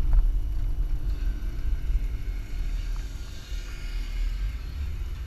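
Jeep driving slowly, a steady low engine and drivetrain rumble, with a faint hiss that swells a little in the middle.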